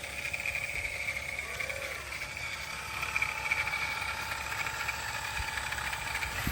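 Steady high whine of a radio-controlled construction model's small electric motor running, over a low rumble.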